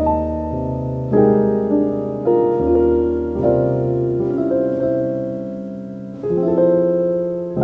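Slow, soft piano music: chords struck every second or two and left to ring and fade.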